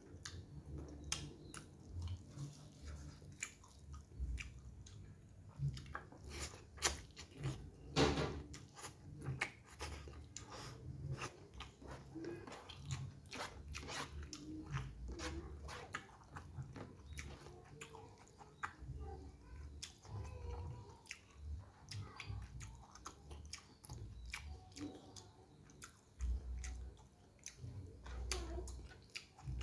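A person chewing a mouthful of noodles eaten by hand, with wet mouth clicks and smacks coming quickly throughout.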